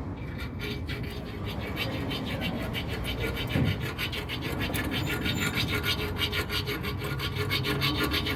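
Hand tool working on a bolt at the exhaust manifold: a fast, even rasping, several strokes a second, that keeps up without a break.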